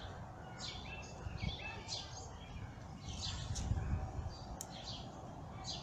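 Birds chirping, short high calls repeating every half second or so, over a soft outdoor background, with a brief low rumble a little past halfway.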